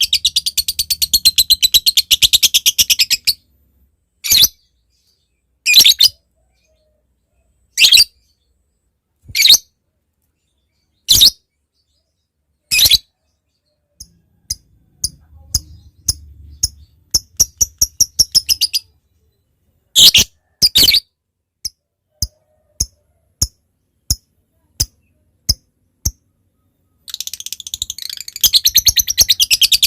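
Lovebird calling with high, sharp chirps. A fast chattering run opens it. Spaced single calls and quicker runs of clipped ticks follow, the 'ngetik' that builds back into a dense rapid chatter, the long 'ngekek', near the end.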